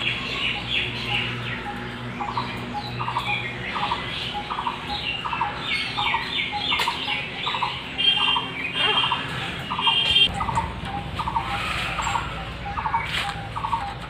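Birds chirping and calling: a short call repeated about twice a second, with higher chirps and twitters over it.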